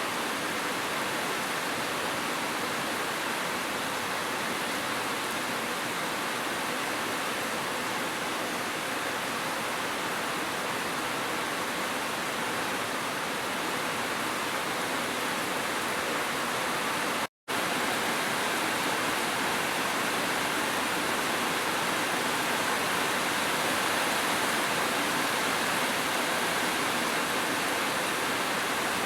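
Steady rushing of a waterfall together with gentle rain, an even hiss of falling water. It cuts out to silence for a split second a little past halfway, then carries on unchanged.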